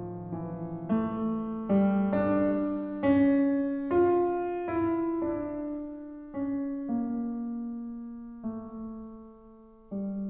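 Slow solo piano background music: single notes struck one after another and left to ring, climbing to a high point and then descending more slowly.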